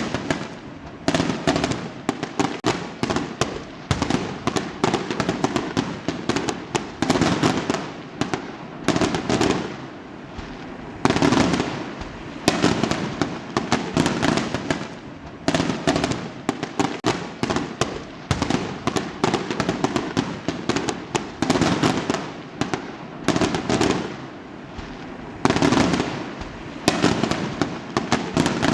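Fireworks exploding in quick succession: dense clusters of sharp cracks and bangs, one burst after another every second or two, without a pause.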